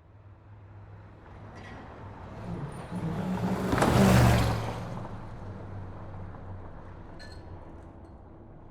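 A car passing by: engine and road noise swell up to a loud peak about four seconds in, then fade away slowly.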